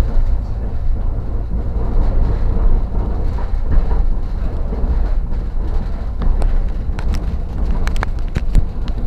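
Train running along the track, heard from inside the carriage: a steady low rumble, with several short sharp clicks and knocks in the second half.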